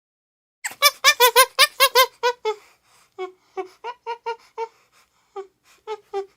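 An animal squeaking in a run of short, pitched squeaks, fast at first and then slower and more spaced out.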